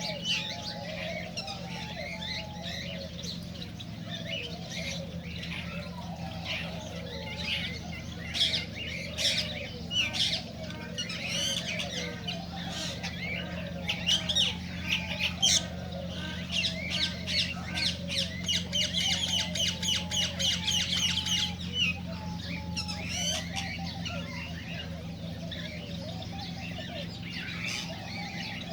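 Several cockatiels chirping and calling over one another in a steady chatter, with a fast run of evenly repeated notes about two-thirds of the way through.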